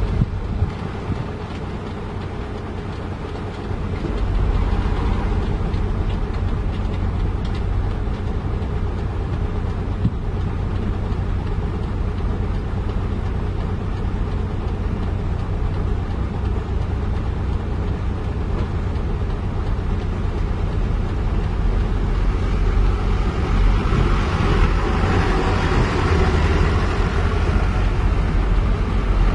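Heavy diesel engine running steadily. It gets louder about four seconds in and rises again in a rougher stretch near the end.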